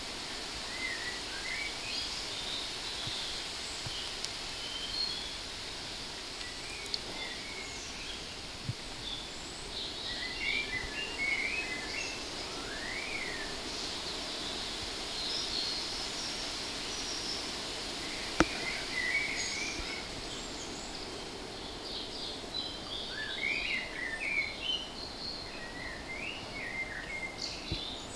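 Small birds chirping and singing in scattered short phrases over a steady background hiss, with a few faint taps and one sharp tap, the loudest sound, about two-thirds of the way through.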